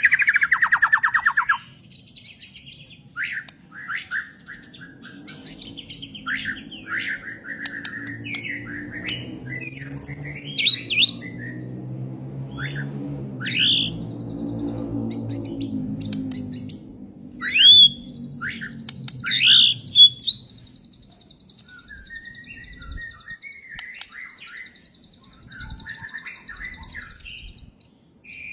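Songbirds singing: a rapid trill at the start, then a string of short chirps, sharp whistles and quick warbled phrases with brief pauses between them. A low droning hum runs underneath through the middle stretch.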